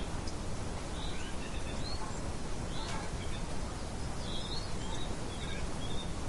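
Outdoor wildlife ambience: scattered short bird chirps over a steady background hiss.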